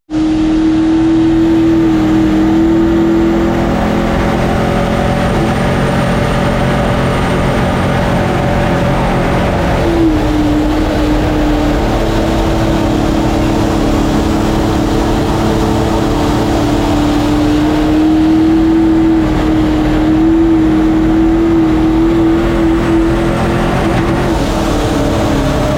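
Mini jet boat's engine running hard under way, a loud steady drone that wavers for a few seconds and then settles back to an even pitch.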